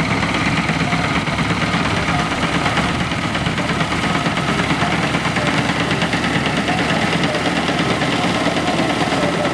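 Al Ghazi tractor's diesel engine running steadily, driving a wheat thresher, with a dense, rapid mechanical clatter.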